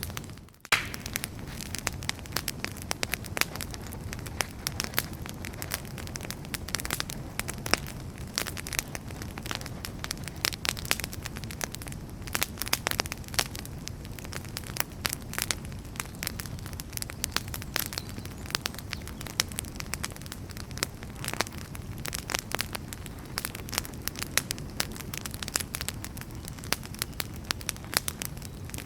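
Wood fire burning in a fireplace: frequent, irregular sharp crackles and pops over a low, steady rumble of flames. The sound drops out briefly about half a second in.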